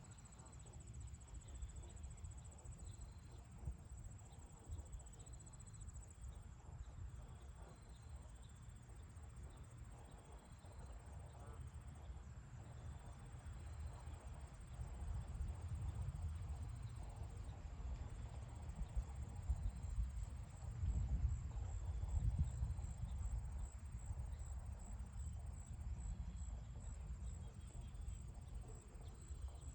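Insects trilling with a steady high-pitched note that breaks into even pulses near the end, over a low wind rumble that grows louder about halfway through.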